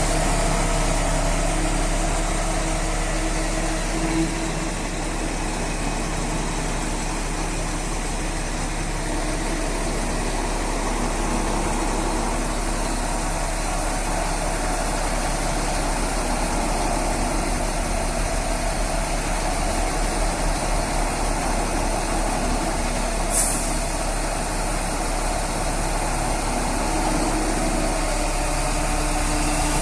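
Mobile crane's diesel engine running steadily. A short, sharp hiss sounds once about three-quarters of the way through.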